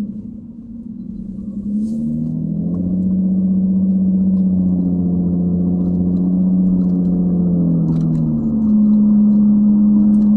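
The 3.5 L V6 exhaust of a 2011 Nissan Maxima SV, with its mufflers and resonators cut off, heard from inside the cabin with the windows up as the car cruises. It gives a steady low note that dips briefly at the start, then grows louder and shifts in pitch about two seconds in and again near the end.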